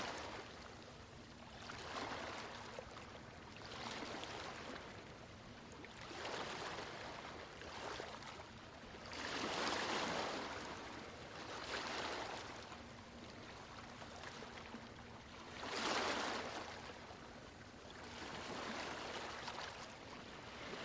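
Small sea waves washing in and out, one soft surge about every two seconds. Two of the surges, near the middle and later on, are stronger than the rest.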